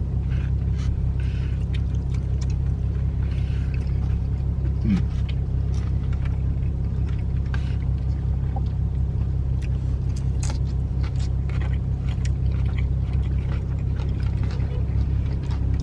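Steady low rumble inside a parked car with its engine running, under scattered light clicks and taps of eating from plastic food containers.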